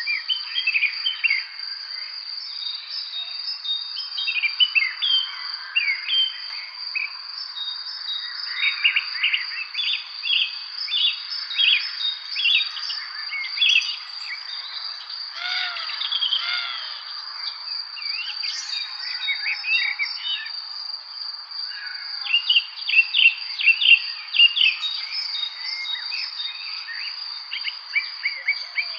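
Evening spring birdsong: many birds chirping and calling in quick short notes, busiest about a third of the way in and again near the end, over a steady high-pitched insect trill that never stops.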